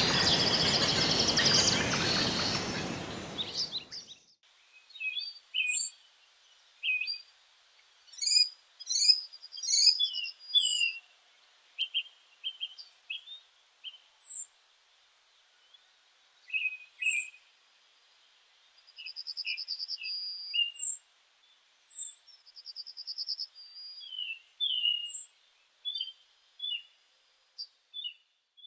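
Several songbirds calling and singing: short high chirps, quick down-slurred whistles and a few rapid buzzy trills, spaced out with pauses between them. For the first few seconds a loud even rushing noise covers them, fading and then cutting off abruptly about four seconds in.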